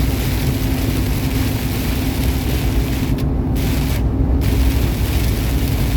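Semi-truck cab interior at highway speed: steady engine drone with road and wind hiss. The hiss briefly drops out twice, about three and four seconds in.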